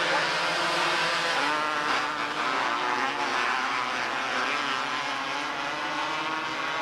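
Several small race-car engines running hard together on the track, their pitches rising and falling as they rev through the laps.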